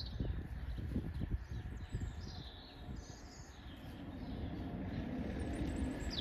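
Small birds chirping over a low rumble that builds steadily louder in the second half.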